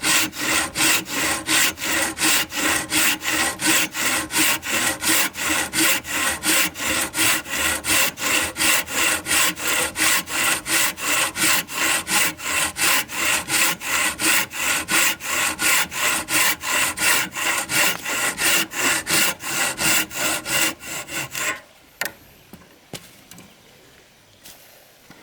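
Hand saw cutting wood in fast, even strokes, about three or four a second, stopping abruptly about 21 seconds in; a few faint knocks follow.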